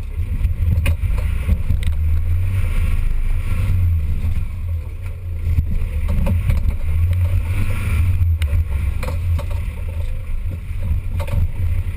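Off-road 4x4 vehicle's engine running with a steady low drone, with scattered knocks and rattles over it.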